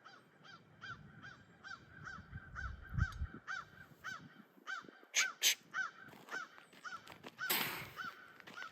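A bird calling over and over in short, evenly spaced chirps, about three a second, with a couple of sharp clicks and a brief louder noisy burst near the end.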